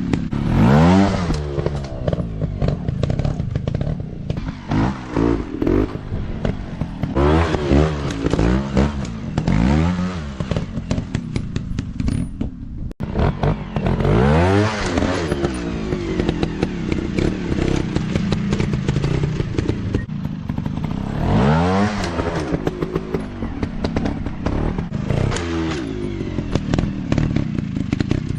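Small off-road motorcycle engines revving up and falling back again and again, as on a dirt track, with clattering and scraping underneath.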